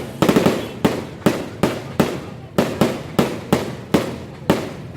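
Fireworks going off in a rapid, irregular run of sharp bangs, about three a second, each trailing off quickly.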